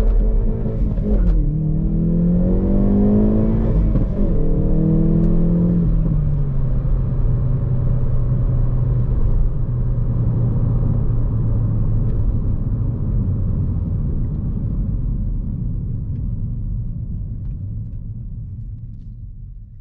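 Hyundai i30 N's 2.0-litre turbo four-cylinder accelerating hard, the revs dropping on an upshift about a second in and climbing again. After about five seconds the revs fall away to a steady low engine note that fades out near the end.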